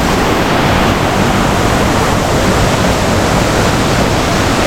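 Waterfall and fast-flowing river: a loud, steady rush of falling and running water.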